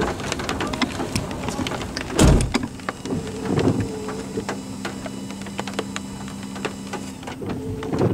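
Sounds inside a parked vehicle: scattered sharp clicks and taps, a heavy thump about two seconds in, then a steady low hum for about four and a half seconds.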